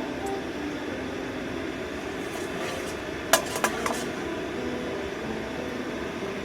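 Fried rice sizzling in a frying pan, with a spatula stirring and scraping it. About three seconds in, a few sharp metal clacks ring out, the loudest of them first.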